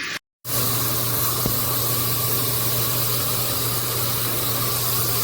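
Handheld filtered shower head spraying water: a steady, loud hiss of spray with a low hum under it. The sound breaks off briefly just after the start, then runs on unchanged.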